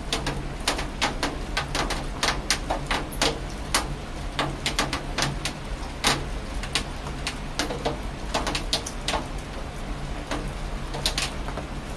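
Rain with large drops striking a hard surface close by: irregular sharp taps, several a second, over a steady low rumble.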